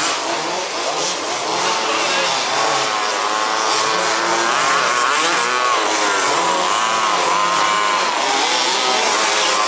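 Several 1/5-scale RC buggies' small two-stroke petrol engines buzzing at once, each rising and falling in pitch as the buggies accelerate and ease off.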